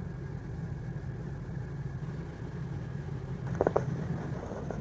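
Steady low hum with a few soft short clicks about three and a half seconds in.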